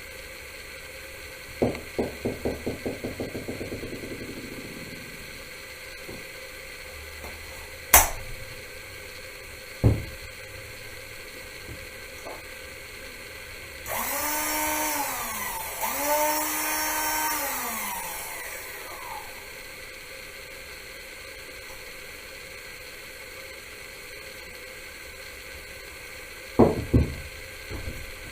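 Parkside 12 V cordless mini angle grinder switched on twice in quick succession, each time spinning up to a steady high whine for a couple of seconds and then winding down, running free with no cutting. A few sharp clicks and knocks of the tool being handled come before and after, including a quick run of bouncing clicks near the start.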